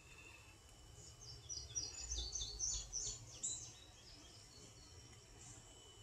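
A songbird singing: a quick run of short, high chirps lasting about two and a half seconds, starting about a second in.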